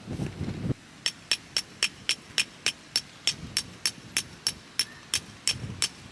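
A hammer driving a tent peg with quick, even blows, about three or four a second, each strike sharp with a bright metallic ring.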